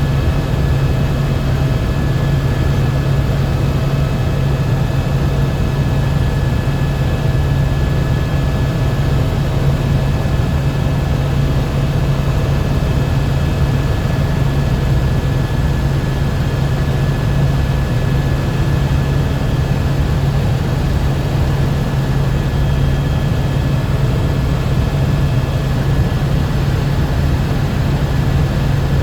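Helicopter engine and rotor noise, steady and loud, with a strong low drone and a few faint steady whining tones above it.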